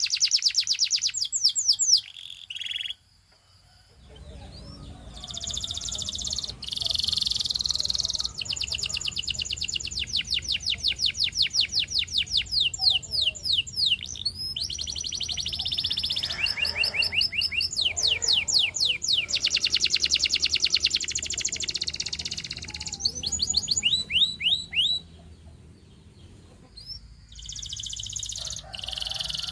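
Domestic canary singing: long, fast trills of rapidly repeated sweeping notes, changing from one rolling phrase to the next. There is a short break about three seconds in and a quieter stretch near the end.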